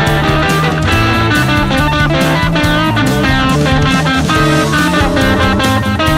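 Instrumental break of a punk/garage-rock song: electric guitar playing a lead over drum kit and bass at a steady driving beat, with no vocals.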